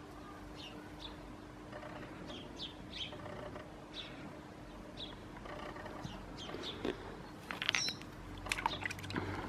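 Small birds chirping: short high calls repeated every second or so, with a louder cluster of calls about three-quarters of the way through.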